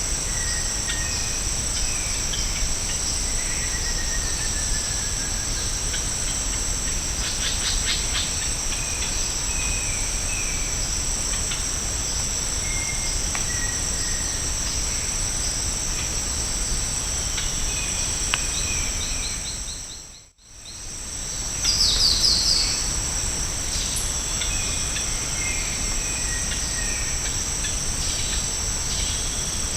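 Rainforest insects droning steadily at two high pitches, with scattered short bird calls over them. About two-thirds of the way through, the sound fades out and back in, followed by a louder burst of quick descending bird notes.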